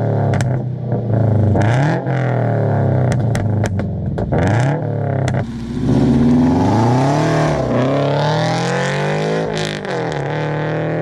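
FA20 flat-four with unequal-length headers, catless front pipe, stock resonator and no mufflers, accelerating through the gears with a Subaru rumble. The pitch climbs and drops back at each shift, several times over, then climbs for longer near the end.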